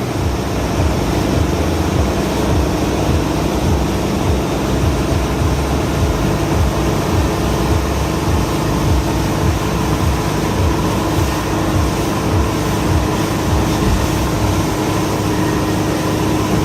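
Tow boat's engine running steadily at towing speed, with wind buffeting the microphone as a low irregular rumble.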